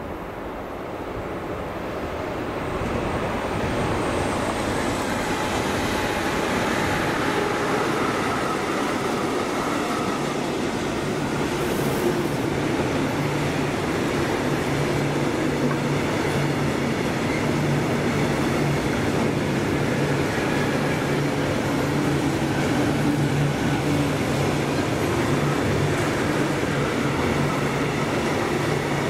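A train running past on the rails: the noise builds over the first few seconds and then holds steady and loud, with a low steady hum joining about a third of the way in.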